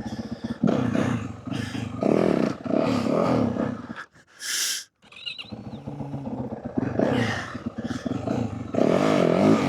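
Yamaha WR450F dirt bike's single-cylinder four-stroke engine revving in repeated bursts of throttle during wheelie practice. The sound drops out briefly about four seconds in, apart from a short hiss.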